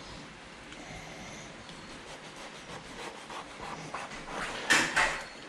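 Knife cutting into the thick rind of a pomelo: quiet scraping and rubbing, then two louder crunches close together near the end.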